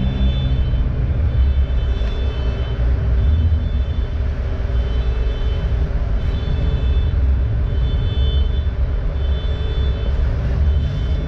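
Car engine and road rumble heard from inside the cabin while driving slowly, steady and loud with a faint high whine over it.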